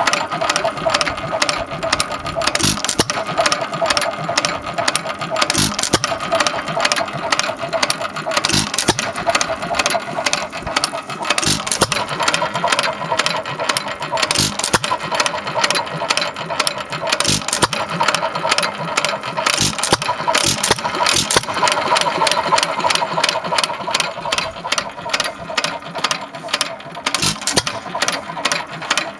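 1.5 horsepower Hercules hit-and-miss stationary engine running, with a rapid, even clicking throughout.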